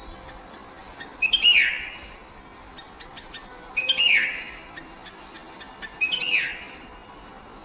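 A bird's chirping call repeated three times, about every two and a half seconds, each a short rising note that drops into a quick falling sweep, the repeats nearly identical.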